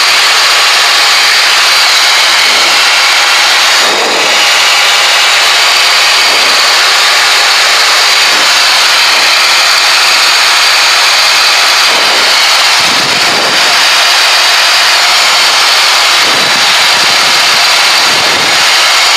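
Steady cockpit noise of a Cessna Citation Excel climbing out after takeoff: an even, loud rushing hiss of airflow and its twin turbofan jet engines.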